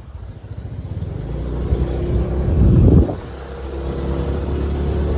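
Motorbike running on the road, with engine and road rumble that builds to a loud surge about three seconds in, then drops off sharply to a steadier drone.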